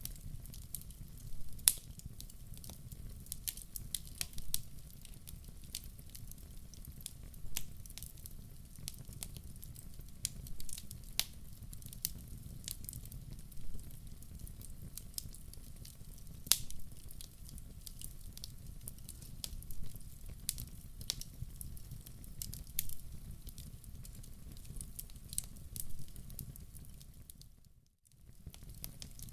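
Wood fire burning in a fireplace: a steady low rumble of flames with irregular sharp crackles and pops from the logs. The sound dips out briefly near the end.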